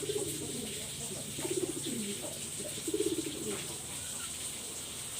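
Black-capped lory making three low, buzzy, rapidly pulsed calls, about a second and a half apart.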